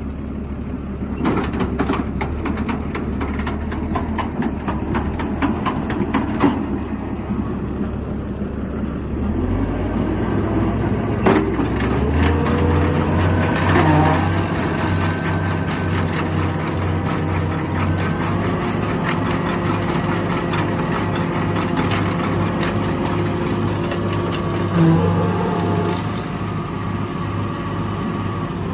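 An engine running steadily. It speeds up about ten seconds in and then holds at a higher, steady pitch. Frequent sharp cracks and crunching sound over it.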